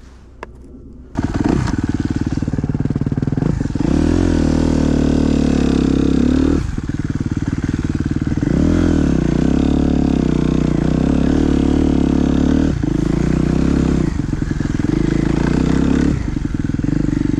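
Suzuki dirt bike engine running hard, coming in suddenly about a second in, revving up and falling back with the throttle, with brief drops a few times as the throttle is rolled off.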